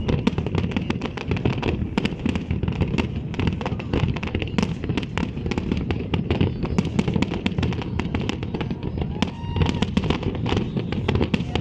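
Fireworks display: a rapid, unbroken barrage of booms and crackling bursts, many each second.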